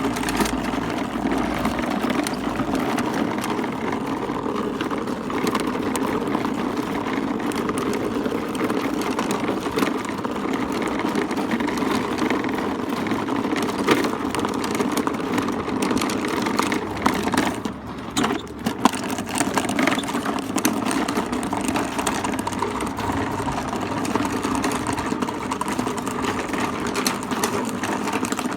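A motor vehicle's engine running steadily at low revs while it moves the boat trailer, with a short drop in level about two-thirds of the way through.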